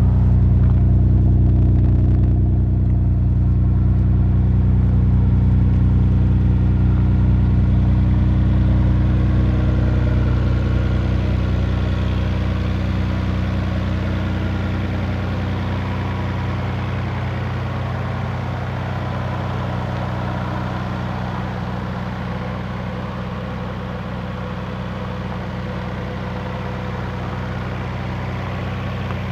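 Nissan R32 Skyline GT-R's RB26DETT twin-turbo straight-six idling steadily through a 3.5-inch VeilSide exhaust, getting gradually quieter from about ten seconds in.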